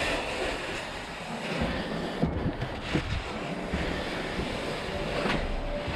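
Snow shovel pushing and scraping through light, fluffy snow, a steady rough hiss with a few short knocks.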